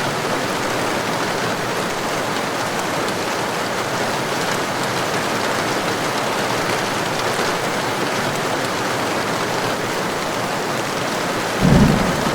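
Heavy rain falling steadily, a dense hiss of drops. Near the end comes a brief low thump.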